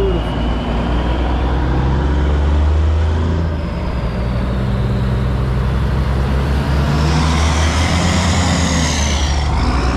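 Heavy truck engine running steadily close by, with a high whine that rises and falls about seven seconds in.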